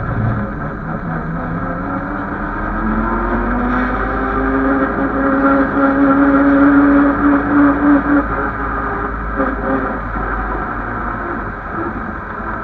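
Engine of the 1927 Bentley 'Old Mother Gun' racing car heard from on board, pulling in gear with its pitch rising steadily for several seconds. It is loudest a little past halfway, then the engine eases off as the car slows.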